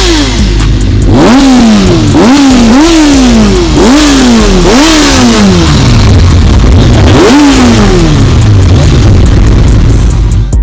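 Yamaha YZF motorcycle engine revved in repeated blips, about six times: each rev climbs quickly and then dies back down over about a second. The revs thin out near the end.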